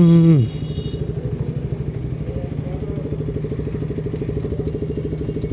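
KTM RC 200's single-cylinder engine running at a steady idle, with a fast, even pulse and constant pitch.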